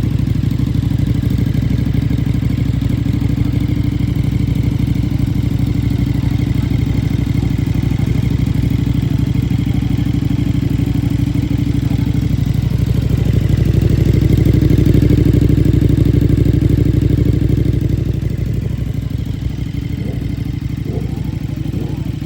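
KTM 1390 Super Duke R Evo's V-twin engine idling steadily, growing louder for a few seconds past the middle and then settling back to idle.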